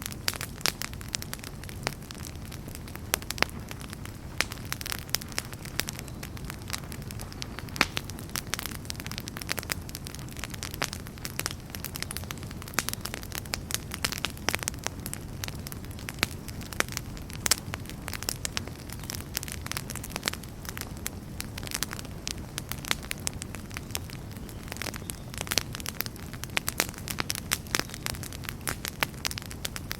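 Wood fire crackling in a fireplace: dense, irregular sharp snaps over a low, steady rumble of burning.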